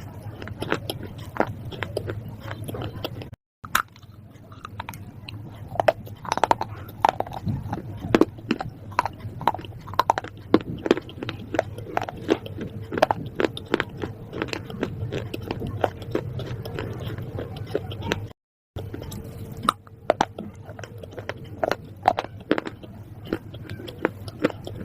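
Close-up crunchy chewing and biting: a dense run of crisp, irregular crunches, several a second. The sound drops out completely twice, briefly, about three seconds in and again past the middle.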